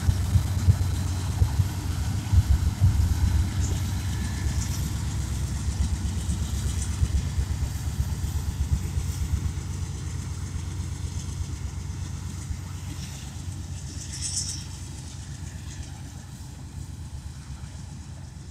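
Passing freight train: the diesel locomotives rumble at first, with sharp wheel knocks, then autorack cars roll by as the rumble fades steadily. A brief high squeak comes about two-thirds of the way through.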